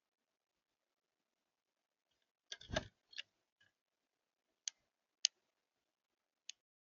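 Birds at a feeder: a dull knock with a quick rattle of taps about two and a half seconds in, as a bird lands or pecks, then three single sharp taps about a second apart.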